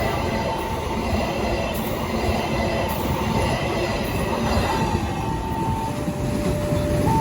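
A train passing over a level crossing, with a steady rumble of wheels on rail. About two-thirds of the way in, a two-note tone starts alternating high and low, about a second per note.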